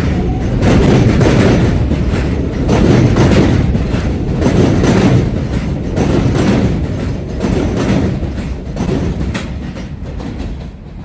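New York City subway train running past, a loud rumble with repeated clicks from the wheels crossing rail joints, fading over the last couple of seconds as it moves away.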